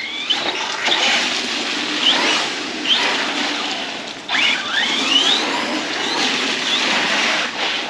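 Arrma Big Rock 6S RC truck's brushless motor whining up and down in short bursts of throttle as its tyres spray and splash through wet ground and puddles.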